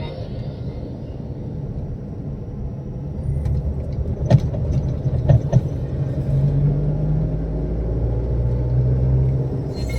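Low steady rumble of a motor vehicle running, with a few sharp clicks about four and five seconds in.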